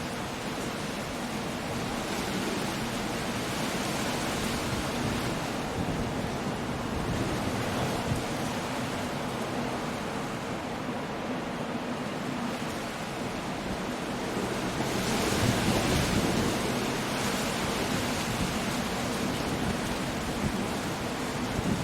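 Coastal storm: surf breaking against the shore under steady wind and rain, a continuous roar of noise with a bigger wave swelling louder about two-thirds of the way through.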